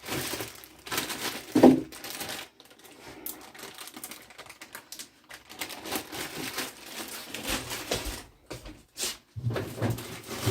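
Irregular clicks, taps and crinkling of kitchen handling as soft carrots are prepared for the pot.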